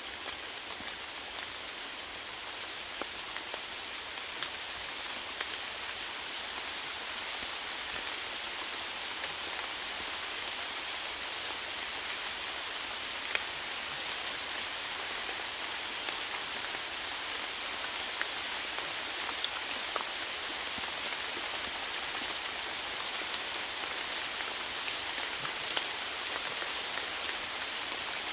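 Steady rain falling, an even hiss with many individual drops ticking on hard surfaces, slightly heavier toward the end.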